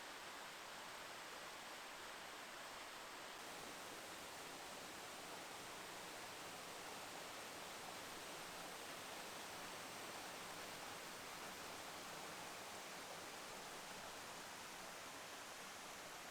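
Steady, faint rush of running water from a mountain stream.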